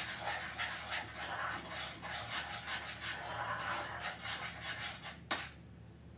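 Rapid, continuous rubbing and scraping strokes, with one sharp knock about five seconds in.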